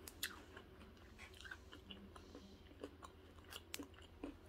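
Faint chewing of a batter-fried chicken wing: scattered soft mouth clicks and crunches.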